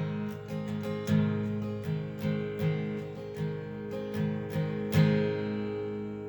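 Acoustic guitar strummed and picked in a slow, even pattern, the last chord left ringing and fading near the end.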